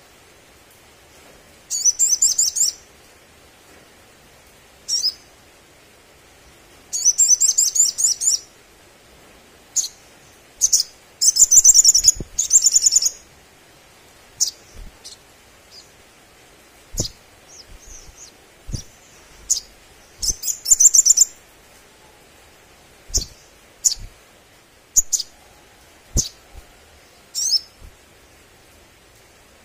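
Sunbird singing: bursts of high, rapid trilling chirps lasting about a second each, broken up by short single chirps. A few small knocks sound in between.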